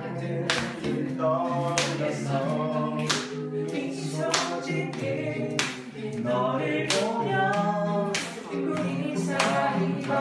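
A group of voices singing a cappella in harmony, with a sharp percussive hit about every second and a quarter keeping the beat.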